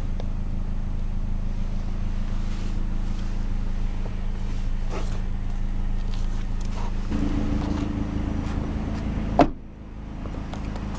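A 2012 Mazdaspeed3's turbocharged four-cylinder engine running at a steady idle. About seven seconds in, its note shifts. A sharp thump comes near the end, and after it the hum is quieter.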